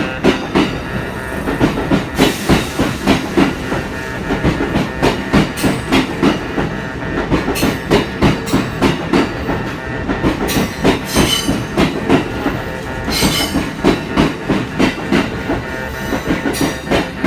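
Kintetsu commuter train passing over a level crossing, its wheels clattering rhythmically over the rail joints in a steady run of knocks.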